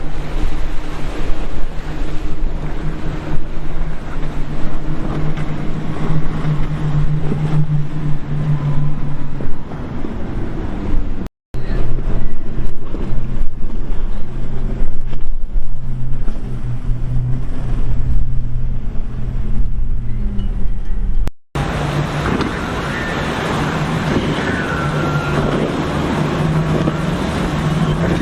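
Powerboat engines running with a steady low drone, over wind noise on the microphone and waves. The sound cuts off abruptly twice, about 11 and 21 seconds in, and is noisier after the second cut.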